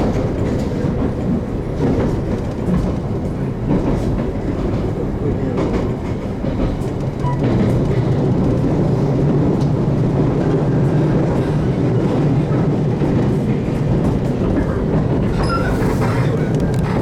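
JR Kyushu 813 series electric train running, heard from inside the carriage: a steady rumble with occasional clicks of the wheels over rail joints. The running grows louder about seven seconds in.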